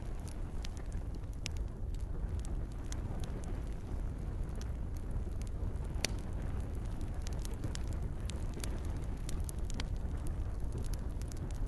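Wood campfire crackling, with irregular sharp pops over a steady low rumble and a soft hiss of gentle rain.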